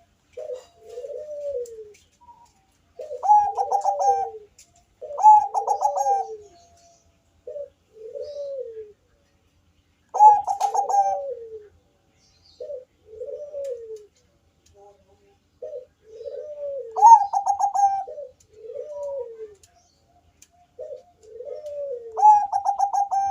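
Bangkok-type zebra doves (perkutut) cooing. A soft, arching low coo repeats about every second, and five times a louder, higher phrase of rapid stuttering notes breaks in.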